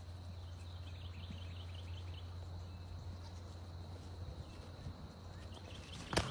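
Faint outdoor ambience: a steady low hum, with a quick run of short high chirps in the first couple of seconds and a few sharp clicks near the end.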